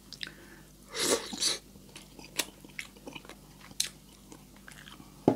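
Close-miked wet chewing and lip smacks of a person eating saucy canned sardines with rice by hand, with sharp smacks scattered through and a short louder wet burst about a second in.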